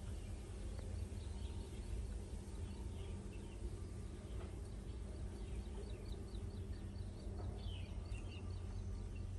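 Outdoor ambience of a steady low rumble with a small bird chirping: scattered high chirps, then a quick run of high notes about five a second from about four and a half seconds in until near the end.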